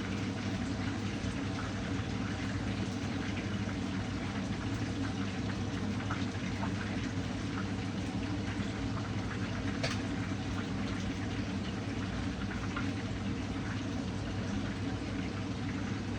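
Food cooking in a pan on the stove: a steady bubbling hiss with scattered small pops, over a low steady hum.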